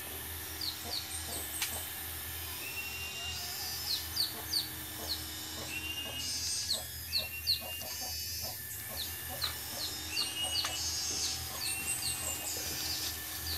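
Birds chirping over and over: short, high, falling chirps with a few brief whistled notes, and a few faint clicks in between.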